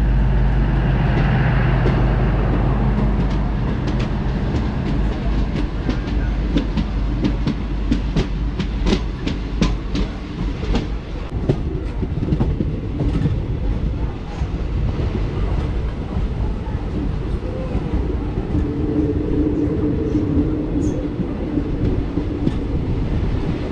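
Indian Railways passenger train running, heard from an open coach door: the wheels rumble on the track, with a quick run of sharp clickety-clack clicks in the middle.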